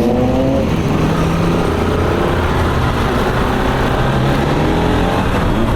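A vehicle engine running at road speed under a dense rumble of wind and road noise, its pitch drifting a little up and down.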